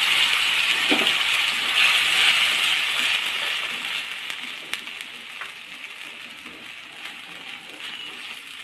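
Tomato and onion paste sizzling in hot oil in a kadai while a wooden spatula stirs and scrapes it. The sizzle is loud at first and dies down from about four seconds in, with a few light knocks of the spatula.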